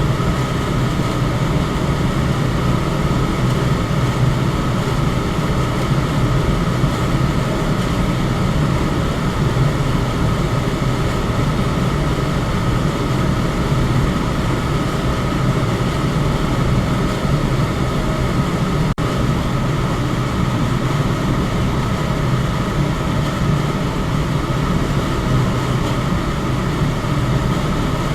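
Electric fan running steadily, a constant whooshing noise with a low motor hum and a faint higher tone. A split-second dropout breaks the sound about two-thirds of the way through.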